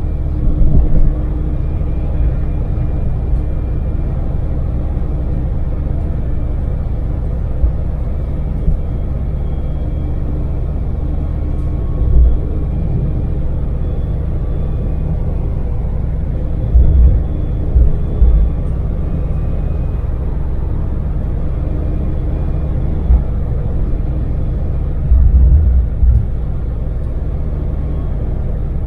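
Daewoo Damas microvan's three-cylinder LPG engine and road noise, a steady low rumble while cruising on the expressway. Brief low thumps come several times, a cluster of them near the end.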